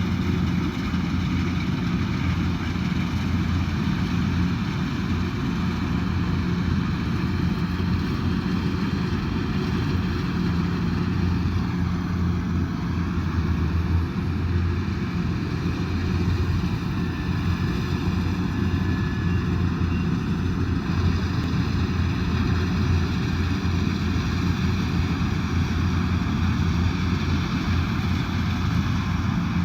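Kubota DC108X combine harvester running steadily, a continuous low drone of its diesel engine and machinery with no change in speed.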